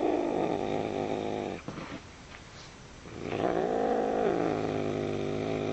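A grumpy cat's long, low drawn-out call, heard twice, each call rising and falling in pitch. The first ends about one and a half seconds in, and the second starts about three seconds in.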